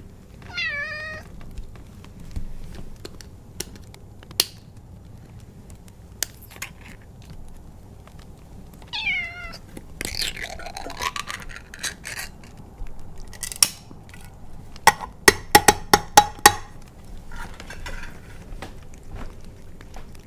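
Bengal cat meowing twice, once about a second in and again near the middle. Sharp clicks come and go, with a quick run of them a few seconds from the end, over a steady low bed of wind and fire ambience.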